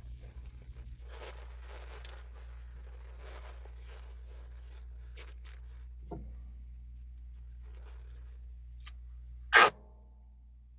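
Material being handled and cut with scraping and rustling, a few clicks and a knock about six seconds in, then one short, loud rip near the end, over a steady low hum.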